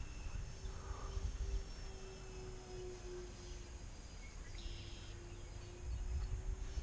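Distant RC model airplane's motors, heard as a faint steady drone that wavers slightly in pitch as it flies, with wind rumbling on the microphone.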